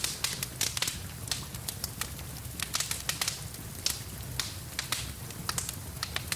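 Wood fire crackling in a fireplace, with irregular sharp pops several times a second over a low steady rumble, mixed with the even hiss of rain.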